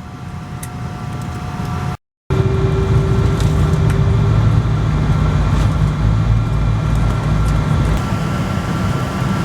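Steady low rumble and hum of a Boeing 777-200ER's cabin on the ground before departure, from the air conditioning and engines, with faint steady tones over it. The sound cuts out briefly about two seconds in and comes back with a louder rumble.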